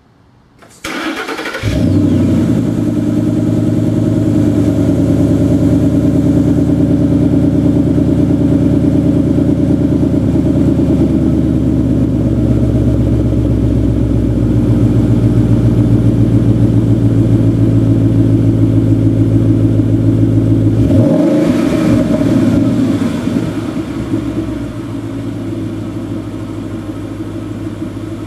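A 2012 Ford Mustang GT's 5.0-litre V8 is cranked and starts about a second in, then idles at a high, steady speed heard through its exhaust. About 21 s in the idle drops and the engine settles to a lower, quieter idle.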